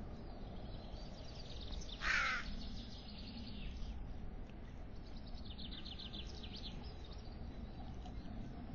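A single harsh bird call about two seconds in, with fainter high twittering of small birds before and after it.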